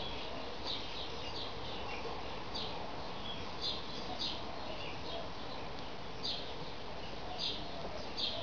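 Budgerigar chirping: short, high chirps repeated at irregular intervals over a steady background hiss.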